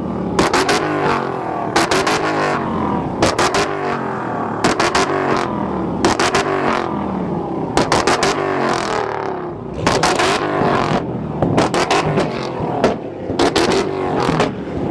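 Car engine revved over and over, its pitch climbing and falling with each blip of the throttle, with sharp cracks between revs. There is a brief lull just before the middle.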